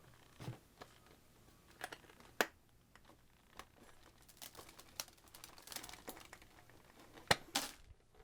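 Faint scattered plastic clicks and rustling as the Eureka vacuum cleaner's dirt container is handled and emptied by hand, with a sharper click near the end.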